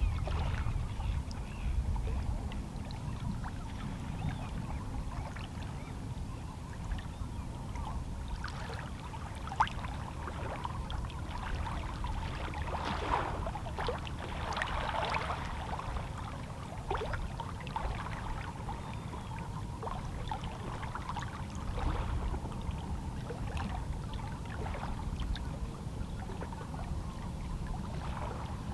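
Small, calm-sea waves lapping and splashing against shoreline rocks, with water trickling and gurgling among them over a steady low rumble of the sea. The splashing is busiest in the middle stretch.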